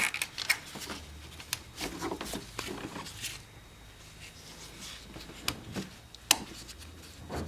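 Plastic cover being handled and fitted back into place: scattered light clicks and rubbing, with a sharper click about five and a half seconds in and the sharpest snap about six seconds in.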